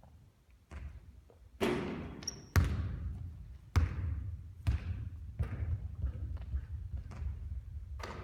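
Basketball bouncing on a hard court: a run of thuds, roughly one a second, with a louder hit that has a longer hissing tail about a second and a half in.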